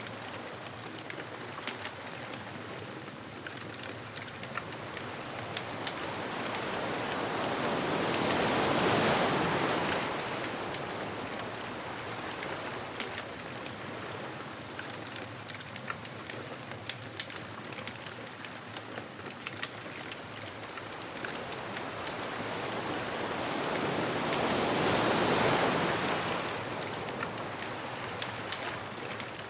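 Ocean waves washing onto a beach, two swells building and falling away, about a third of the way in and again near the end, over the steady crackle and pop of a bonfire.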